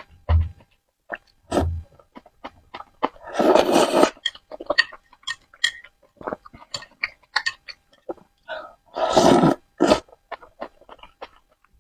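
Close-miked eating sounds of Korean spicy noodles: wet chewing and mouth clicks throughout, with two longer noodle slurps, about three seconds in and again near nine seconds, and a couple of low thumps in the first two seconds.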